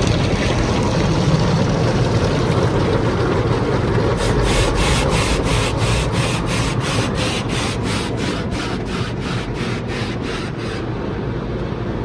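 Automatic tunnel car wash equipment scrubbing and spraying the car, a steady rubbing rush. From about four seconds in until near the end, a rhythmic swishing comes in, about three strokes a second, then stops.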